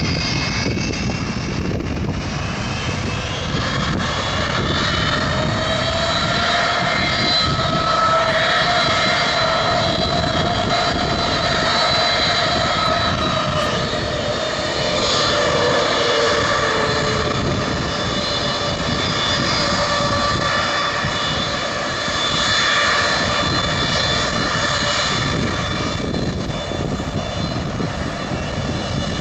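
Jet engines of a Boeing 757-300 airliner running, heard from outside as a steady rush of noise with several whining tones that drift slowly up and down in pitch and swell now and then.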